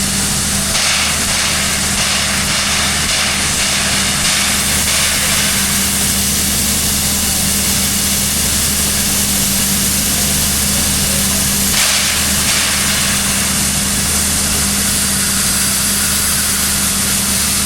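Heritage steam locomotive standing during coupling, giving a steady hum under a continuous hiss of steam, with brief louder hisses about a second in, near the middle of the first third, and about two-thirds of the way through.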